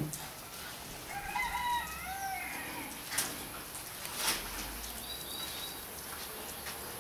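A bird calling in a string of short, wavering whistled notes for about a second and a half, then two sharp clicks about a second apart and a brief high chirp.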